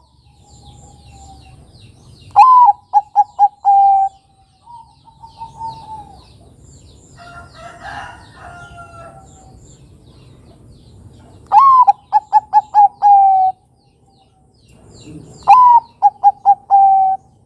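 Bangkok-strain zebra dove (perkutut) male singing its rolling coo three times: each phrase opens on a higher note, runs into a quick string of short notes and ends on a held note. Softer cooing and faint small-bird chirps fill the gaps.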